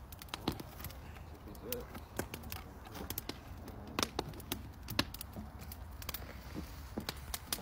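Wood fire crackling, with sharp irregular snaps and pops, several a second.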